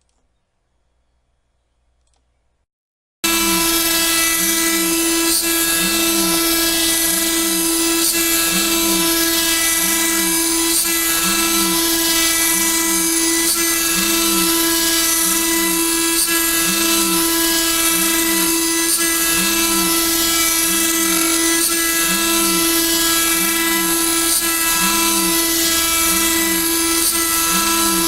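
A CNC cutting machine starts abruptly about three seconds in and then runs steadily and loudly, cutting the silencer plates: a high whine over a hiss, with a lower warble that repeats about once a second.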